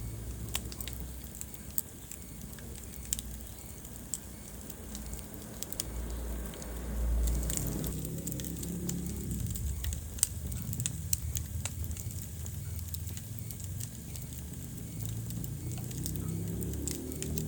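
Wood fire burning in a fireplace: a low rumble of flames with scattered sharp crackles and pops, a few of them louder than the rest.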